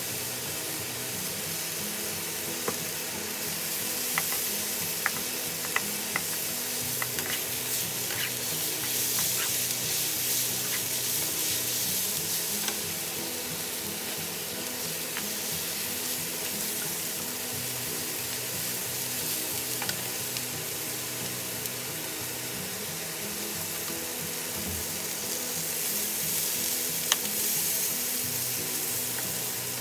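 Fish cake strips and sliced onion sizzling in a hot oiled pan while being stir-fried with wooden spatulas, with an occasional click of wood against the pan.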